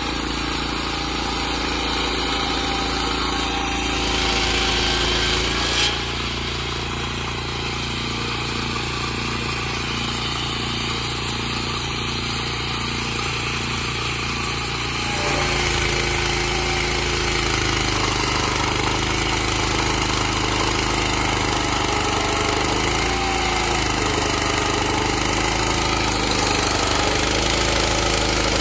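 Petrol engine of a circular-blade sawmill running steadily, with a short knock about six seconds in; about halfway through the sound changes and gets a little louder.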